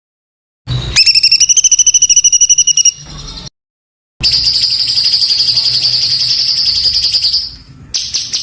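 Songbird singing rapid-fire 'tembakan' trills: a fast pulsed trill of about a dozen notes a second, then after a brief silence a longer, denser high trill, with varied shorter notes near the end. The abrupt silences between phrases show spliced recordings.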